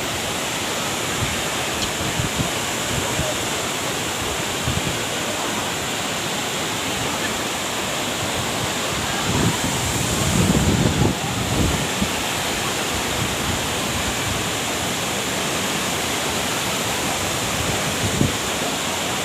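Waterfall crashing into its pool, a steady even rush of water noise. A brief louder low rumble comes about halfway through.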